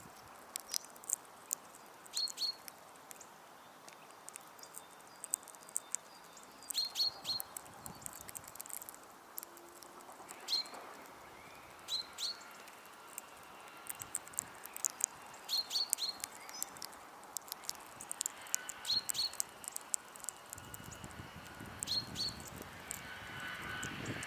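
Small birds feeding at a seed feeder: frequent sharp pecking and tapping clicks, mixed with short high chirps that often come in quick pairs or threes.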